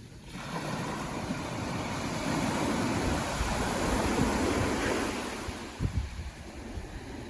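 Ocean surf: a wave surges in, swelling from about half a second in and falling away near the end, with wind buffeting the microphone in low thumps around six seconds in.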